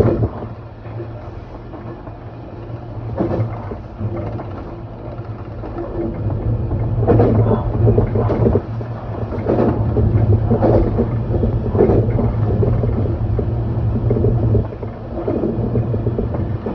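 Electric train running, heard from inside the carriage: a steady low hum with irregular knocks and clatter, growing louder about five seconds in and easing off near the end.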